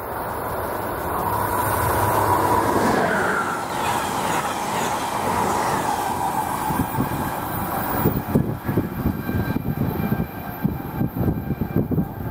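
A passenger train passing at speed: a rush of noise that builds, a tone that falls in pitch a few seconds in, then a fast clatter of wheels over rail joints from about eight seconds in.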